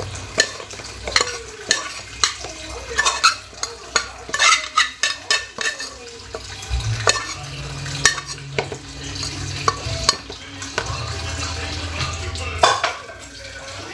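A utensil stirring and scraping in a frying pan, with many quick clinks and knocks against the pan, busiest in the first half, over the steady sizzle of food frying.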